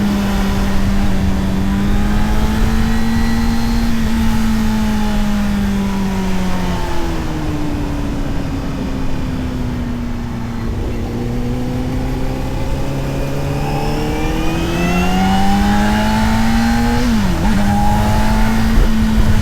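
Honda CBR600RR inline-four engine and exhaust under way. The engine holds steady revs, then the pitch sinks as the throttle eases off. From about two-thirds of the way in it climbs again under acceleration, with a brief sharp drop and recovery that marks a quick gear change, over steady wind rush.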